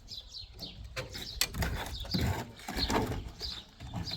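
Small birds chirping repeatedly in short falling notes, several a second, over a background of irregular low rumbling and a few knocks.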